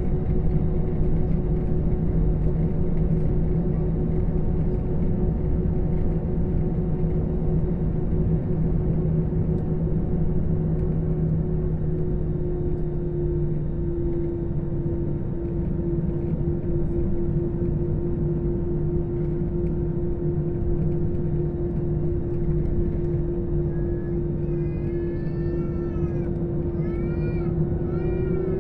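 Steady drone of a jet airliner's engines heard inside the cabin before take-off, with two steady hum tones, the lower of which fades out about halfway through. Near the end, four or five short high cries that rise and fall in pitch.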